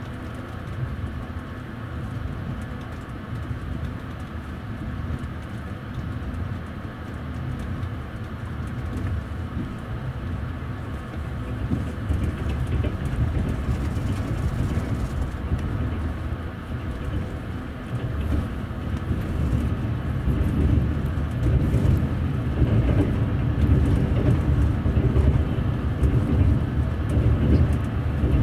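Wheels of a TVZ double-deck passenger coach rolling on the rails, heard from inside the upper deck as a steady low rumble. The rumble grows louder in the second half as the train runs onto a river bridge.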